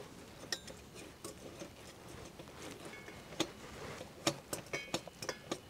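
Irregular light clinks and taps of utensils against dishes, a few ringing briefly, coming thicker and louder in the second half.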